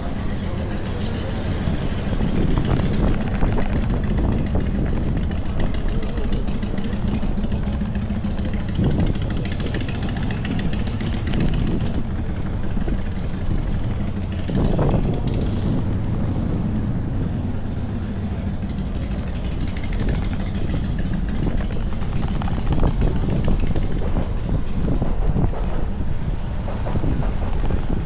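Strong wind buffeting the microphone in a steady low rumble, over city street noise.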